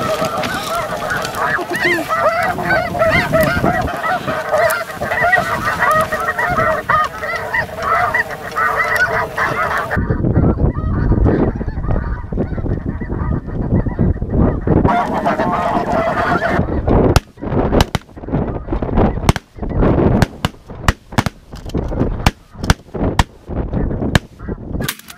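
A flock of snow geese calling overhead, a dense clamour of high yelping honks. In the second half it comes with a low rumble, and then a series of sharp, loud knocks.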